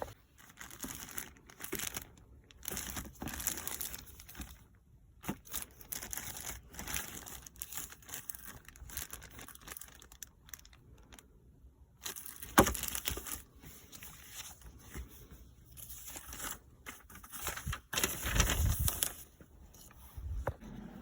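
Irregular rustling and crinkling as a car's cabin air filter and its wrapping are handled, with a sharp knock a little past halfway.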